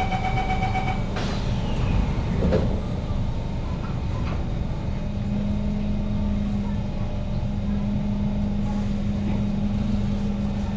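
Kawasaki C151 metro train with GTO-VVVF traction, as it moves off: the door-closing chime ends about a second in, the doors shut with a knock, a second knock follows, and from about halfway a steady low motor drone sets in as the train pulls away.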